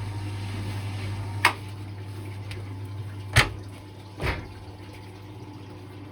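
Drain pump humming steadily as washing-machine water drains, with three sharp clicks; the pump is slow and struggling to cope with a lot of water.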